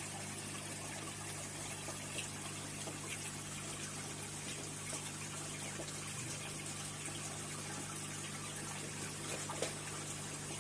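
Aquarium water circulating: a steady trickling and splashing of water, with a steady low hum underneath and a few faint droplet ticks.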